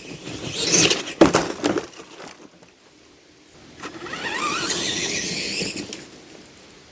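Tamiya TXT-2 RC monster truck driving: a burst of crackling with sharp clicks about a second in, as it pushes through sticks. Then, around four seconds in, the electric motor and gears whine, rising in pitch as it accelerates.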